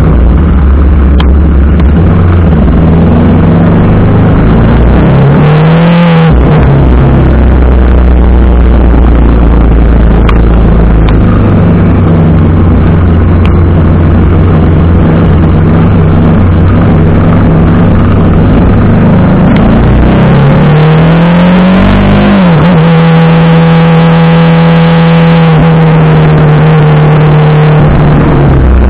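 TVS Apache RR310's single-cylinder engine under way, under heavy wind noise. The revs climb and drop off about six seconds in, then climb again around twenty seconds in and hold a steady note until near the end.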